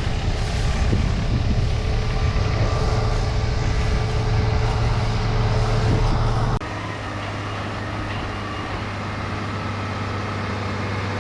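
Heavy farm machinery engine running steadily under load. About two-thirds of the way through the sound drops abruptly and goes on as a quieter, even engine drone.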